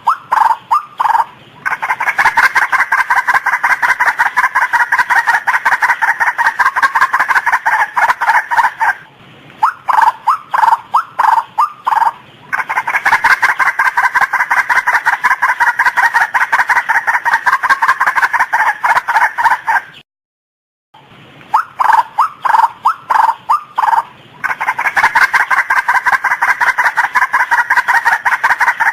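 Female white-breasted waterhen calling: short runs of separate croaking notes that break into long stretches of rapid repeated calls, over and over. There is a brief silent gap about two-thirds of the way through.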